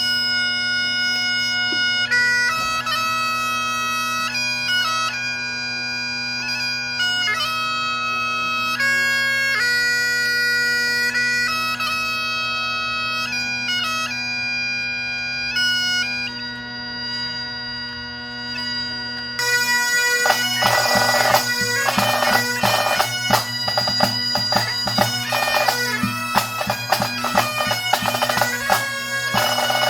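Bagpipes playing a tune over their steady drones, with drums joining in about two-thirds of the way through.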